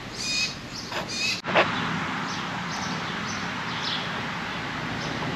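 Outdoor bird calls: a few short calls in the first second and a half, then a brief knock and a handful of faint chirps over a steady background hum.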